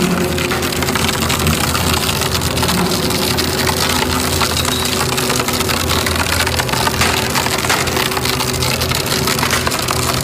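Engine-driven crushing machine running steadily, its engine droning under a dense crackle of material being broken up inside it.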